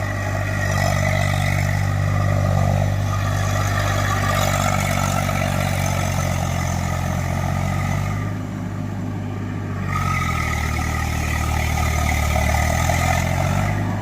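Tractor diesel engines running hard under load while pulling a tractor stuck in deep mud. The engine note drops about eight seconds in, then picks up again and climbs near the end.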